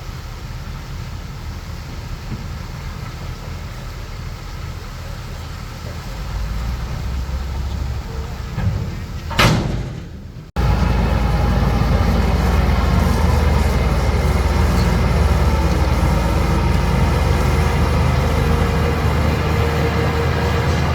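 Heavy earthmoving machinery's diesel engine running. There is a brief loud sweep of noise about halfway through, then a sudden break, after which the engine runs louder with its pitch shifting up and down under load.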